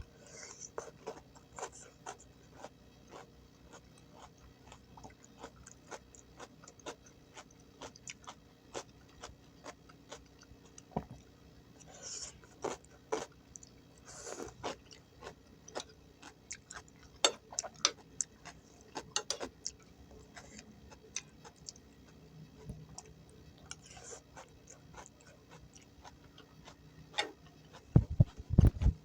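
Close-up eating sounds: a person chewing crunchy gado-gado vegetables with peanut sauce, with many irregular crunches and wet mouth smacks. A few low thumps near the end.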